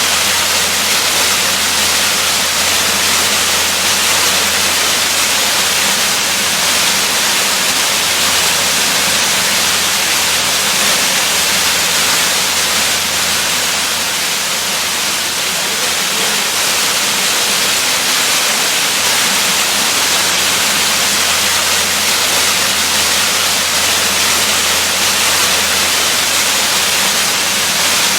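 Waterfall: a steady, even rush of falling water, strongest in the hiss, with no change throughout.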